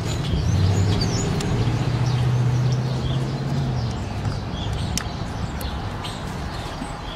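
Small birds chirping over a steady low hum that swells for the first few seconds and fades about four seconds in.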